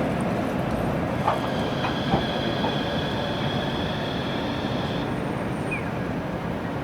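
Toyama city tram (streetcar) running at low speed, with a steady low rumble and a high, steady wheel squeal from about a second in until about five seconds in, plus a couple of light clicks from the rails.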